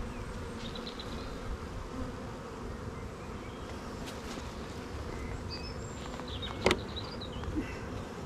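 Honeybees in an open hive buzzing steadily during a frame inspection. A single sharp click stands out about two-thirds of the way through.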